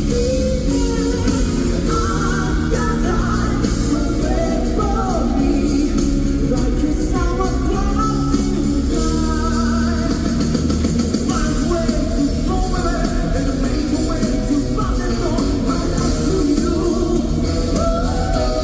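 Live band playing a funk-rock song with singing and guitar, loud and steady, heard as amplified arena sound.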